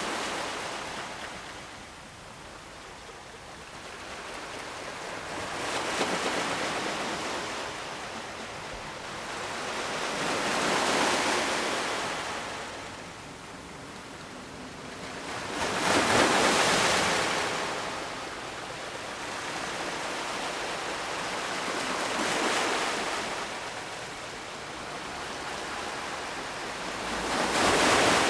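Ocean waves breaking on the shore in a continuous wash of surf. Each wave swells and fades over a few seconds, about five in all, with the loudest about halfway through.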